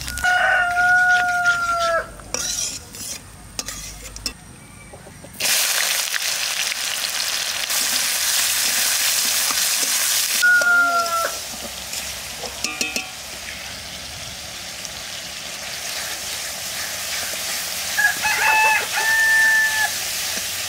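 Sliced onions frying in oil in a large aluminium kadai and being stirred, with a loud sizzle from about five seconds in. A rooster crows three times: at the start, about halfway and near the end.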